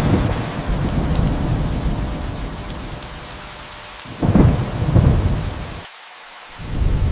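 Thunder rumbling over steady rain. One deep rumble starts suddenly at the outset and fades over about four seconds. A second, louder rumble comes about four seconds in, and a third starts near the end.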